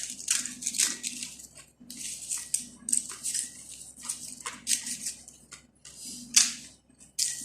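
Crunchy food being chewed close to the microphone: irregular crisp crunches, two or three a second, with brief pauses.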